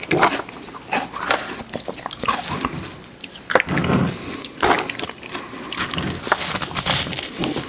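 Close-miked biting and chewing of crunchy cookies: a string of irregular crisp crackles and clicks, bunched into short louder clusters as each mouthful is crunched.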